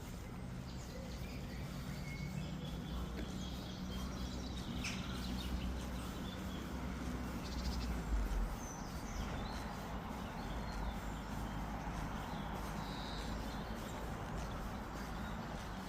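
Small birds chirping and calling now and then over a steady low background rumble.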